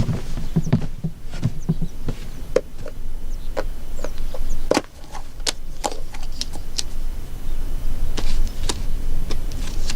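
Scattered light clicks and knocks, a few sharper ones around the middle, over a steady low background hum.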